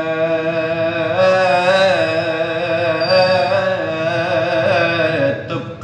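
Male voice singing 'ataba, holding a long ornamented note whose pitch wavers and slides.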